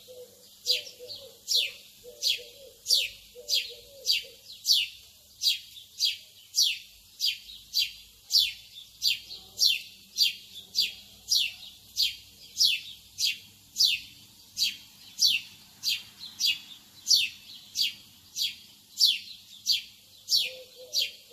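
A bird chirping over and over at an even pace: short, high, falling chirps about twice a second. A fainter, lower warbling sound joins in during the first four seconds or so and again near the end.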